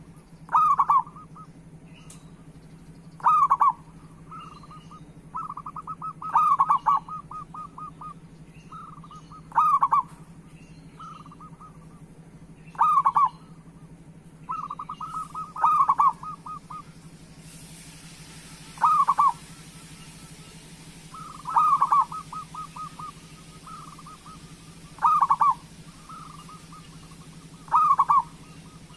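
Zebra dove (perkutut) singing its cooing song: a loud coo about every three seconds, with softer quick trilled notes between, over a steady low hum.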